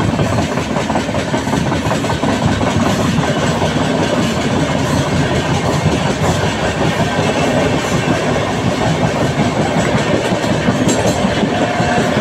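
Train running along the track: steady, loud wheel-on-rail noise with no break.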